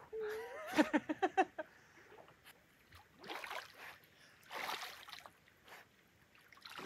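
Lake water splashing as a person and a dog swim, in two short bursts a few seconds in. A voice is heard briefly at the start.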